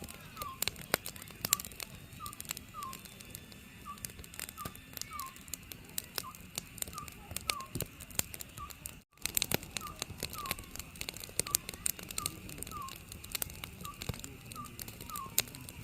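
Oriental scops owl calling, short falling whistled notes repeated at an even, steady rate, over a wood fire crackling and popping. The sound cuts out briefly about nine seconds in.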